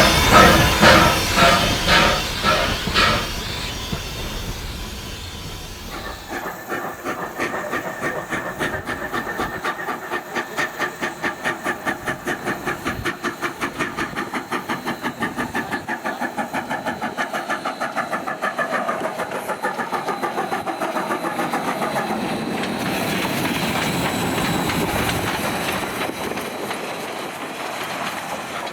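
NZR Ww class steam locomotive working, with its exhaust chuffing and hissing. Loud, evenly spaced beats fade over the first few seconds. From about six seconds in, a quicker, steady beat takes over and runs until near the end.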